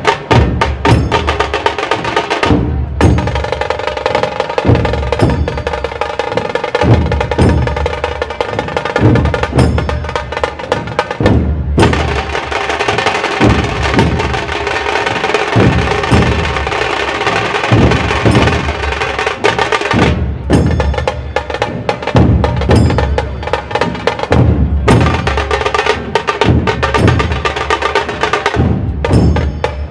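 Dhol Tasha ensemble drumming: big barrel-shaped dhol drums pound a steady deep beat under fast, rattling strokes on the small tasha drums. The playing comes in repeated phrases, broken by a short, sharp stop roughly every nine seconds before starting up again.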